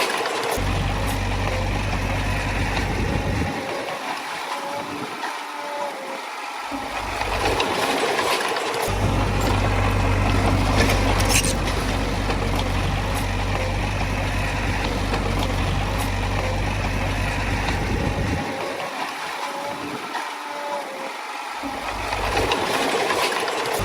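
Heavy diesel earthmoving machinery running steadily at work. Its deep low rumble drops away twice for a few seconds, about four seconds in and again past the middle, then returns.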